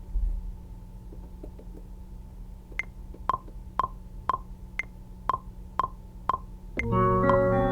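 Metronome clicking about two beats a second, the first of every four clicks higher-pitched, counting in a bar. Music with a plucked-string sound comes in near the end.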